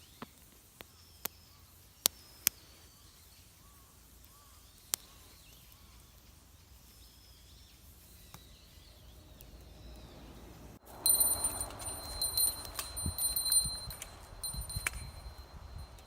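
Faint birdsong with a few sharp clicks. About eleven seconds in, the sound changes abruptly to a small bell jingling in an uneven rhythm over low thuds, as of someone walking with the bell on them.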